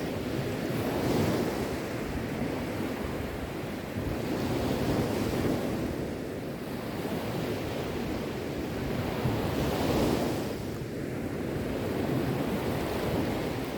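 Sea waves breaking on a shore, the surf swelling and falling back every few seconds.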